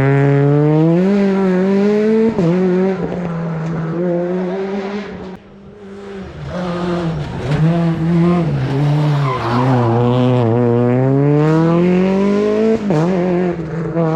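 Rally car engine at high revs, its pitch climbing and falling through the gears with abrupt breaks at the shifts. It drops away briefly about five seconds in, then revs up again.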